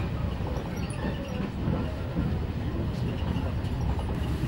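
Passenger train running, heard from inside the carriage: a steady low rumble of the moving train.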